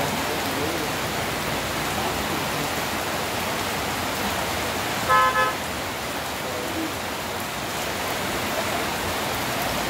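Steady hiss of rain and road noise, with a vehicle horn beeping twice in quick succession about five seconds in.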